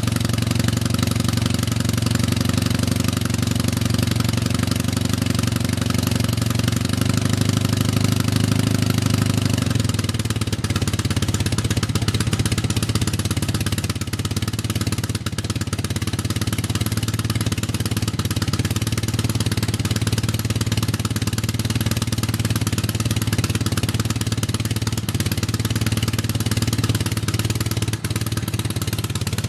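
BMW R100 air-cooled flat-twin boxer engine on a K-750-style sidecar motorcycle idling steadily while warming up from a cold start. About ten seconds in, the idle settles a little lower and quieter.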